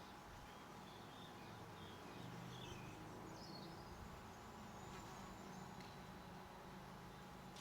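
Faint garden ambience: a few soft, high bird chirps and one short falling note, over a low intermittent hum.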